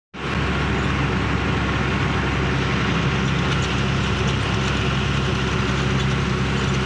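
Truck engine running with a steady, even low hum.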